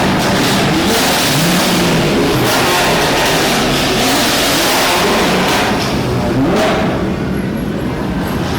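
Loud vehicle engine revving, its pitch rising and falling several times.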